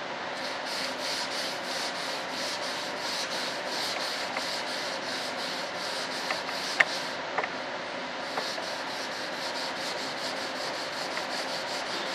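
Hand sanding: sandpaper rubbed back and forth in even strokes, about three a second, pausing briefly about seven seconds in before starting again, with a few light clicks in the pause.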